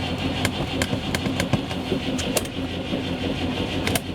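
Moskvich 412's UZAM four-cylinder engine being cranked over by its starter motor after long storage, steady cranking with scattered clicks and not yet running on its own.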